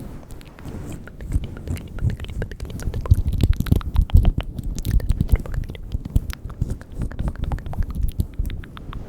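Close-miked ASMR mouth sounds: a dense run of quick wet clicks and smacks over soft low thuds, busiest about three to five seconds in.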